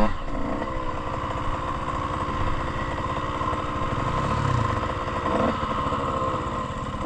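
Dirt bike engine running at steady low revs, near idle.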